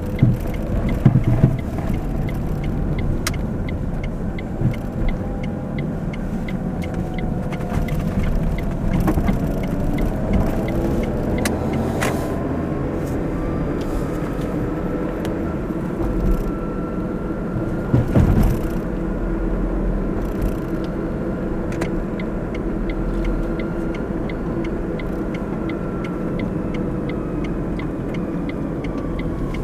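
A car driving: steady engine and road rumble, with a few louder knocks about a second in and again about eighteen seconds in.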